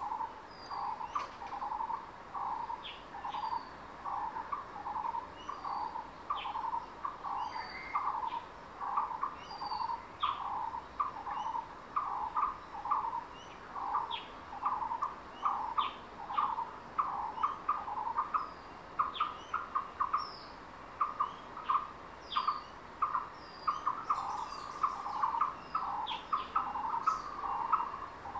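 Forest birds calling: one bird gives a steady run of short, low call notes, about one and a half a second and sometimes in pairs, while other birds chirp sharply over it.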